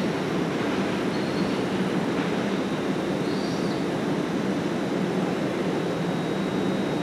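Freight train of covered hopper wagons running over the rails and pointwork, a steady rumble of wheels on track, with a couple of faint brief high wheel squeals about a second in and midway through.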